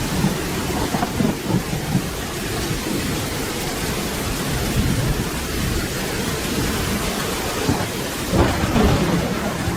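Steady rain falling, with low rolling thunder rumbling underneath. The thunder swells louder near the end.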